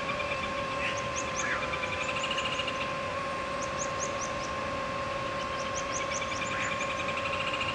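Birds chirping in runs of quick, high, falling notes, with a longer trilled call twice, over a steady high-pitched hum.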